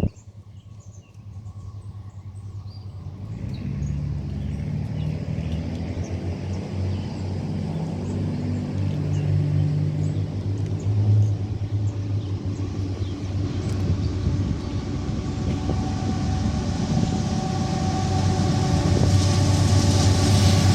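Diesel locomotive engines of an approaching freight train, a low rumble that grows steadily louder. Faint bird chirps at the start.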